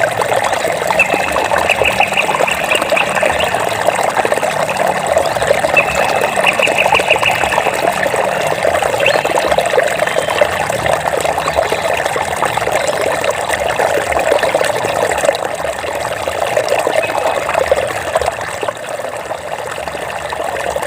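Water trickling and babbling steadily over stones, with a short rapid high trill heard twice in the first several seconds.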